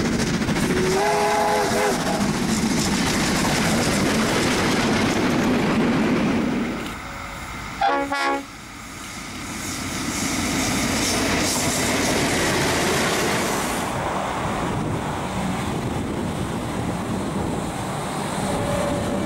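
A series of train sounds. First a steam locomotive working hard with a short whistle blast about a second in. Then a brief locomotive horn blast around the middle, followed by a diesel-hauled passenger train passing with steady rail and engine noise.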